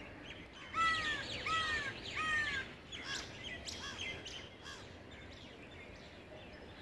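Birds calling: three loud arched calls in quick succession about a second in, then scattered fainter chirps.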